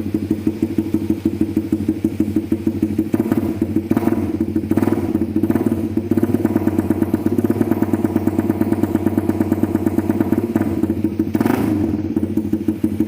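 Suzuki GSX150 motorcycle idling through an original Spec Racing (SR) aftermarket exhaust with a steady beat. Its throttle is blipped lightly several times, held up a little longer in the middle, and blipped once more near the end.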